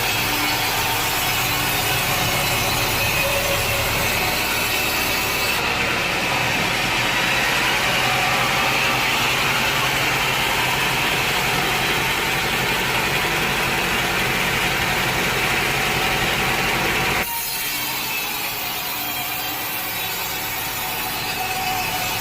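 Sawmill saw cutting through wood with a steady, dense sawing noise. The sound changes abruptly twice, about six and about seventeen seconds in.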